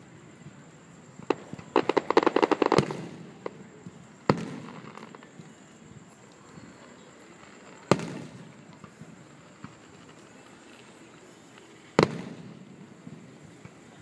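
Aerial fireworks shells bursting: a bang, then a rapid string of crackling pops about two seconds in, followed by single booms about four, eight and twelve seconds in, each trailing off.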